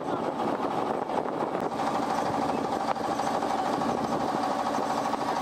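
A tour boat's engine running steadily at cruising speed.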